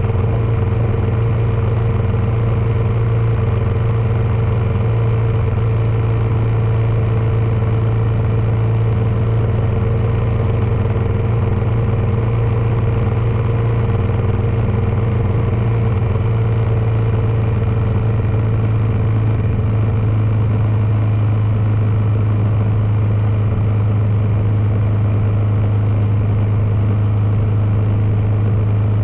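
Kawasaki KLR650's single-cylinder engine running at a steady cruising speed, a constant low drone with no revving, under a steady rush of wind and road noise.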